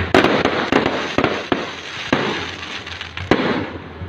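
Aerial fireworks shells bursting: a quick run of sharp bangs in the first second and a half, then single bangs about a second apart, each trailed by crackling.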